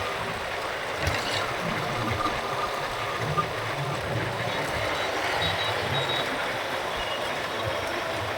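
Road and traffic noise during a motorbike ride through city streets, with wind buffeting the microphone and faint high-pitched beeps about five and a half seconds in.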